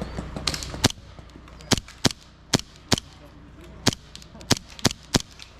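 Airsoft guns firing single shots, about ten sharp cracks at uneven intervals, some in quick pairs.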